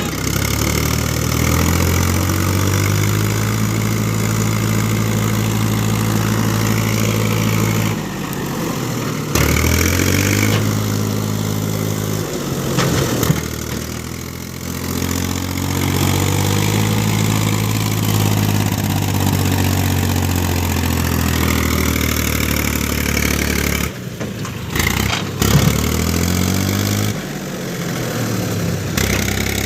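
Heavy diesel engine revving up and holding high revs under strain, then dropping back, several times over: about eight seconds in, around thirteen seconds and near the end.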